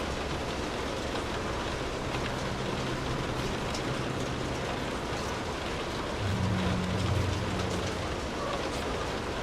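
Steady rain falling, an even hiss with fine drop ticks. A low hum runs underneath and swells about six seconds in before easing off.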